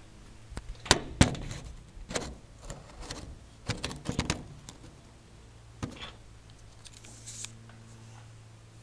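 A series of irregular knocks and clunks, loudest in the first half, with a short hiss about seven seconds in, over a steady low hum.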